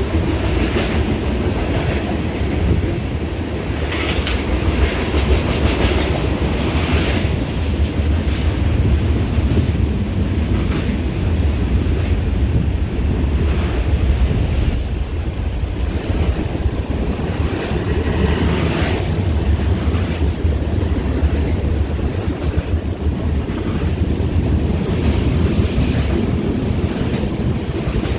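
Freight train cars, tank cars among them, rolling past below in a steady low rumble, with wheels clacking over the rails now and then.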